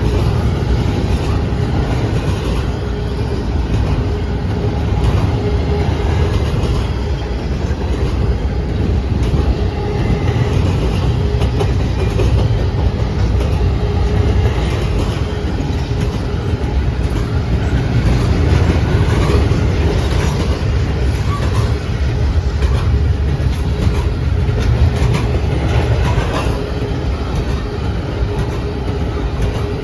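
Long intermodal freight train's cars rolling past at speed: a steady, loud rumble of steel wheels on rail.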